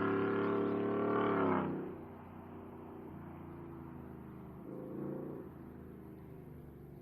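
Ford F-150's Borla ATAK exhaust under throttle, loud and steady. About two seconds in it falls away to a much quieter low drone as the throttle comes off, with a brief swell around five seconds in.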